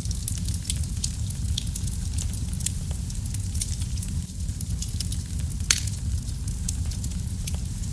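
Wood fire in a fireplace crackling, with many small, irregular pops over a steady low rumble of the flames, and one sharper pop a little past halfway.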